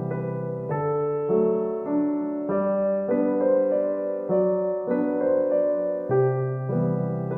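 Background piano music: a gentle, repeating melody of sustained notes with a few notes to the second.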